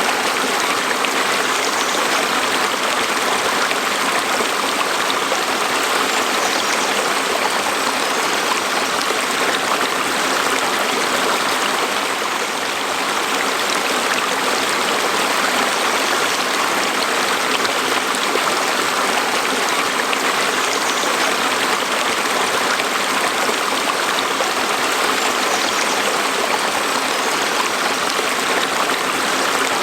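Stream water flowing steadily over rocks, a constant rushing burble.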